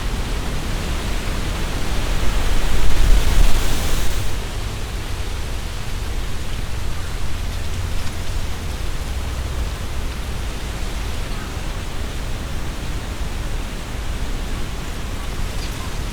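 Strong gusty wind rushing through tree leaves, with a low rumble of wind buffeting the microphone. A louder gust swells about two seconds in, the leaves rustling harder, and eases off after about four seconds to a steady rush.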